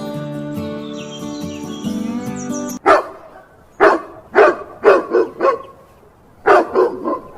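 Background music stops abruptly about three seconds in, replaced by a dog barking: a string of short, loud barks in two bouts with a pause between them.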